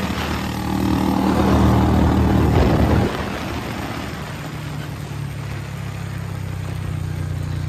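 Royal Enfield Bullet's single-cylinder engine running at speed on the road, with wind noise over it. About three seconds in, the engine note drops sharply and then runs on lower, slowly building again.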